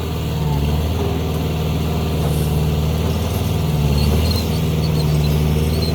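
Engine of heavy equipment running steadily: a low, even drone that gets slightly louder around the middle.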